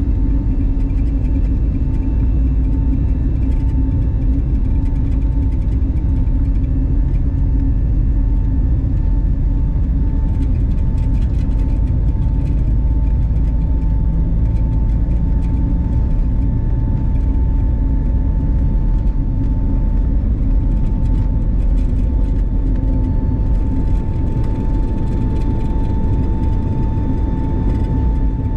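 Airbus A320neo cabin noise: a steady loud rumble of its CFM LEAP-1A engines and airflow, with a constant whine near the middle of the range and faint light ticks in the second half.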